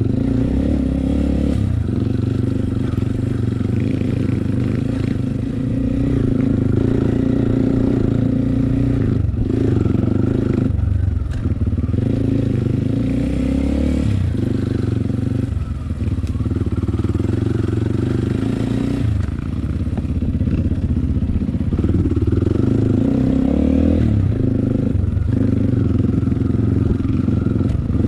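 Enduro trail motorcycle engine running under way, revs rising and falling in steps as the rider works the throttle and gears, with some clatter from the bike over rough ground.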